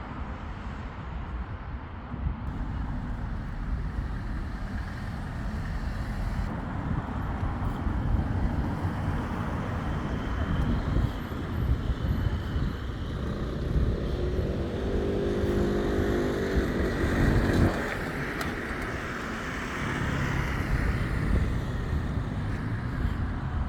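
Road traffic: a steady rumble of vehicles running and passing. About two-thirds of the way through, one engine's pitched note stands out for a few seconds and then fades.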